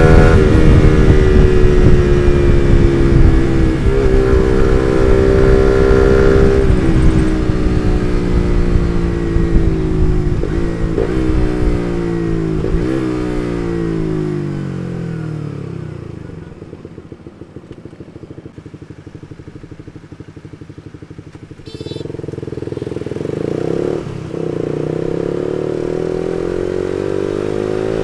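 Suzuki GSX-R150's single-cylinder four-stroke engine through an R9 Misano aftermarket exhaust, ridden hard and then slowing, the revs falling to a quiet low-rev burble past the middle. A short clatter comes just past two-thirds of the way in, then the engine revs climb again with a gear change as the bike pulls away.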